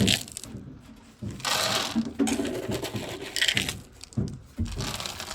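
Dry cat food rattling into a bowl in two pours, the first about a second long just over a second in, the second shorter, with scattered clicks and knocks around them.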